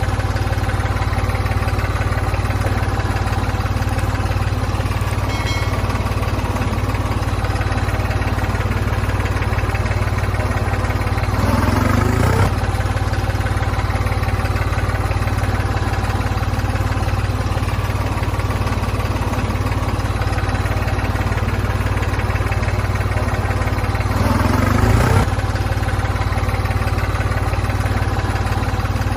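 A steady, low, engine-like running hum, swelling briefly about twelve seconds in and again near twenty-five seconds.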